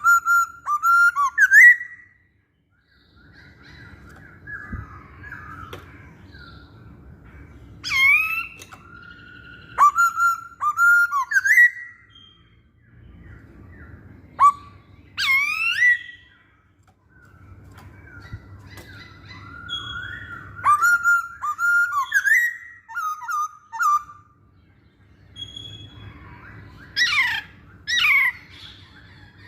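Masked laughingthrush (poksay Hongkong) singing: loud whistled phrases with quick rising and falling notes, in five bursts separated by pauses of a few seconds.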